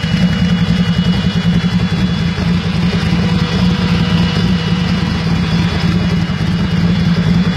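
Motorcycle engine idling steadily, with an even, unchanging beat.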